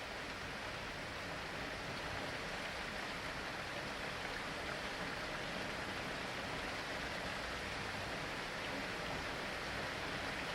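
Rain falling steadily, an even hiss with no breaks or sudden events.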